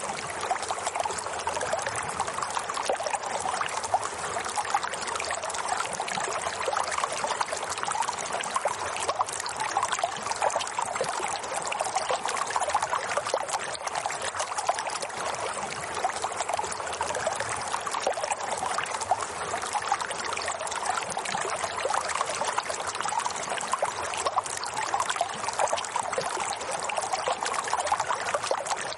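Running water flowing steadily, with a continuous trickling and splashing.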